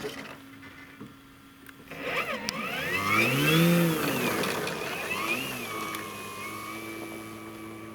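Radio-controlled airplane's electric motor whining. From about two seconds in, its pitch sweeps up and down and it is loudest a little past the middle, then it settles to a steadier whine.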